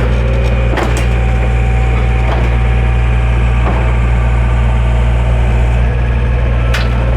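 Backhoe engine running steadily at a low, even drone, with a few sharp knocks over it.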